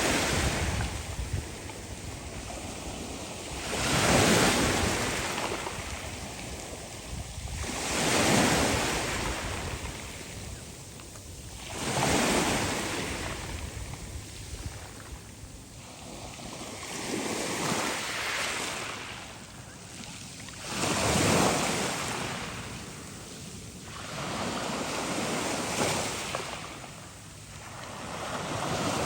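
Black Sea waves breaking on the shore one after another, each swelling up and washing back, about every four seconds.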